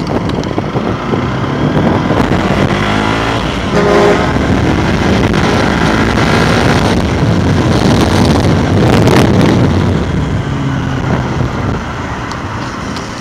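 Bajaj Pulsar 200NS motorcycle's single-cylinder engine pulling away and accelerating, its revs climbing in rising sweeps as it shifts up through the gears, then easing off near the end.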